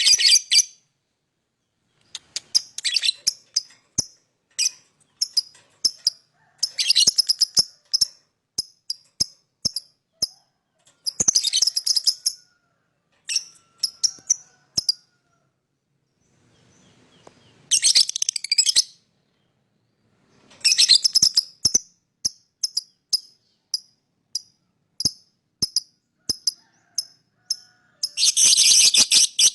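Lovebird chattering and chirping: runs of sharp, high chirps broken every few seconds by dense, shrill bursts of chatter lasting about a second, with short silent pauses between.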